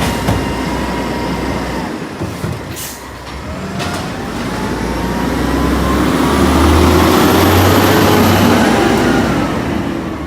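Automated side-loader garbage truck's diesel engine revving up and easing back down, loudest past the middle, with a short hiss of air about three seconds in.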